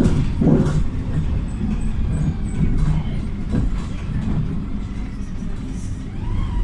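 PAZ 320414-04 Vector bus with its YaMZ-53423 natural-gas engine, heard from inside the cabin while driving: a steady low rumble of engine and road noise, with a few short knocks and rattles from the body.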